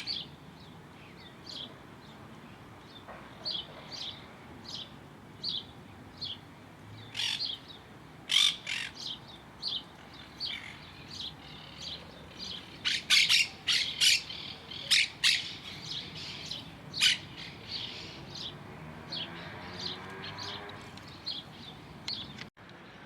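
Birds calling: a steady series of short, high chirps, with louder clusters of sharper calls partway through.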